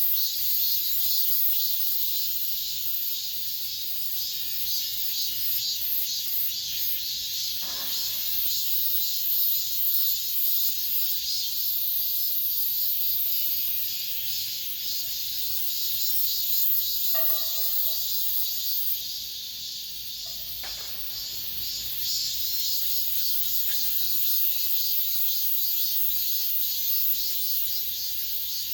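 A chorus of cicadas singing, a dense, high-pitched pulsing buzz that stays steady throughout. A short knock about eight seconds in and a brief pitched sound a little past the middle stand out under it.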